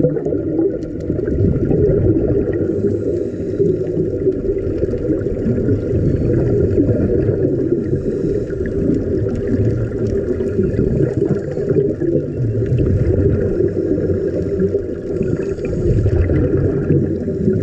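Steady, muffled low rumble of water with a faint steady whine above it.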